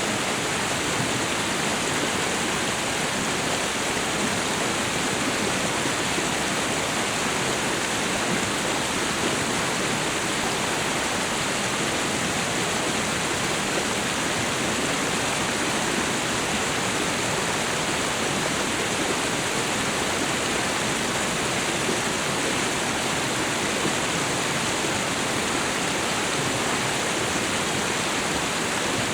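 Waterfall and river water rushing in a steady, unbroken roar.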